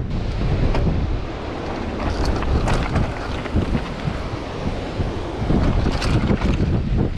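Strong wind buffeting the microphone in a loud, uneven rumble, with a few short clicks here and there.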